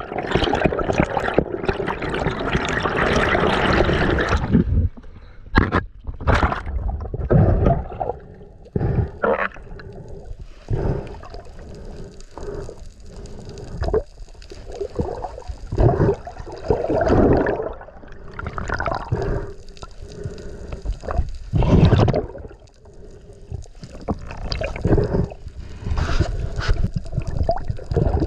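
Water splashing and gurgling around a spearfisher's camera during a dive: a dense, loud wash for the first four seconds or so, then short, irregular gurgles and sloshes.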